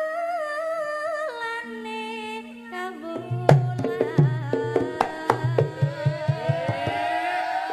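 Javanese gamelan music of a wayang kulit performance. A sung line with vibrato over held tones lasts about three seconds, then drums and sharp knocks come in a steady rhythm, and a rising melodic line sounds near the end.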